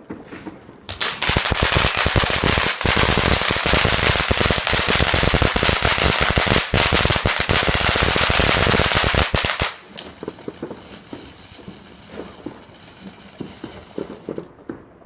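Firecrackers going off in a rapid, unbroken volley of loud bangs for about eight and a half seconds, which stops abruptly. A few faint scattered pops and crackles follow.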